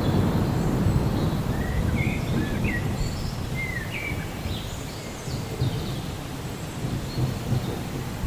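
Steady rain with a low roll of thunder that is loudest at the start and slowly fades. A bird chirps several times in the middle.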